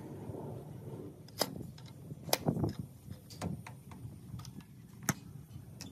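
Scattered sharp clicks and knocks of hand tools and metal parts being handled, a few seconds apart and loudest about two seconds in, over a low steady rumble.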